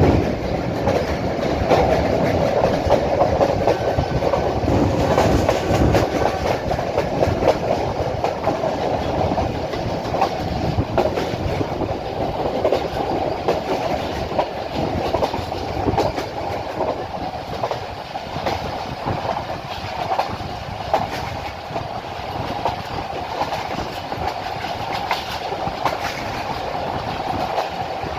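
Passenger train running along the line: a steady rumble with the wheels clattering over rail joints in quick irregular clicks.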